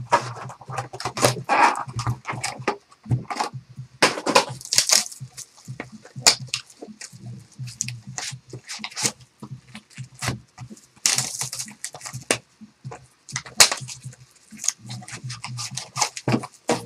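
Cardboard trading-card boxes and wrapped packs being handled and torn open: irregular crinkling, scraping and tearing of card stock and wrapper.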